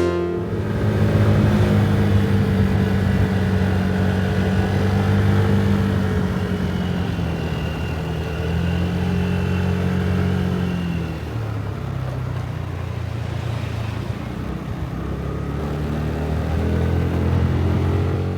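Motorcycle engine running while riding along, its note holding fairly steady and shifting in pitch with speed, with wind and road noise over it.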